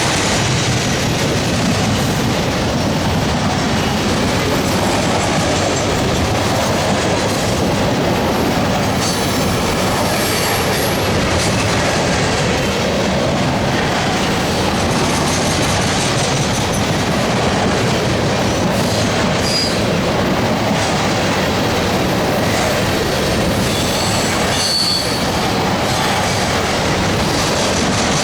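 A long freight train of trash cars rolling past at close range: a steady, loud rumble and clatter of steel wheels on rail, with brief high wheel squeals about two thirds of the way in and again near the end.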